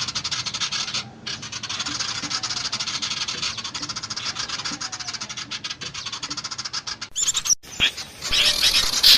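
Small songbirds' alarm chatter from a bird-lure recording: a dry, rapid rattle of many ticks a second that breaks off briefly about a second in. Near the end it cuts abruptly to a louder burst of high chirping calls.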